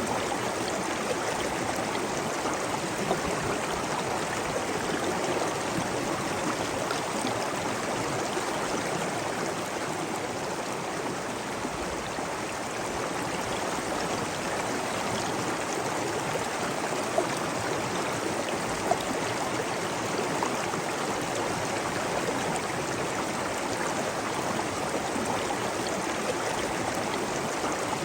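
Flowing water running steadily, like a stream or small cascade, with a couple of sharper splashes past the middle.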